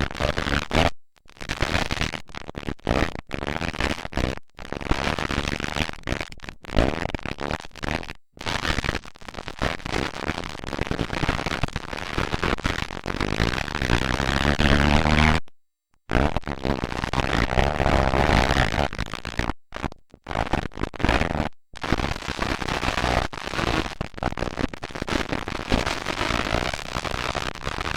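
Motocross dirt bike engines running loudly and harshly, with one bike revving up about halfway through. The sound cuts out completely for brief moments several times.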